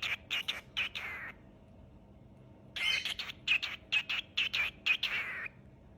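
Cockatiel vocalizing: two runs of quick, chirpy whistled notes, the second starting about halfway through and lasting a few seconds.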